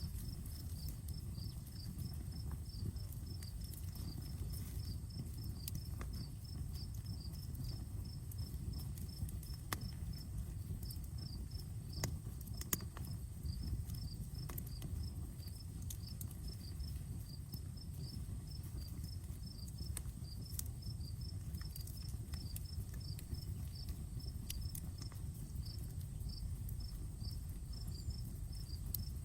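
Outdoor campfire burning with a steady low rumble and scattered sharp crackles and pops. An insect chirps in a steady rhythm in the background, about three chirps a second.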